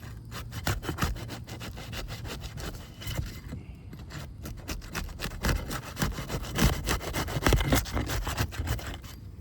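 Crowbar worked under asphalt roof shingles, scraping and crackling as it breaks the shingles' sealant bond to unseal them. The cracks come thick and fast, growing louder in the second half.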